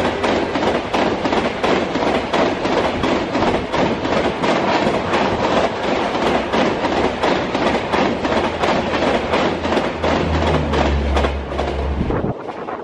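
Express passenger coaches rushing past at speed, their wheels beating a fast, even clickety-clack over the rail joints with a rushing noise. A low hum joins in as the last vehicle goes by, and the sound drops away suddenly about twelve seconds in as the end of the train clears.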